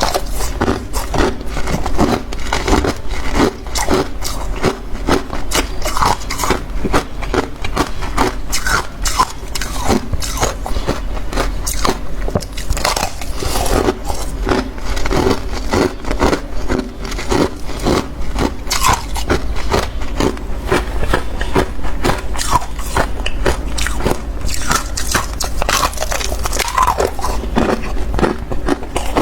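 Freezer frost being bitten and chewed close to the microphone: continuous, irregular crunching with crackly, scraping bites one after another.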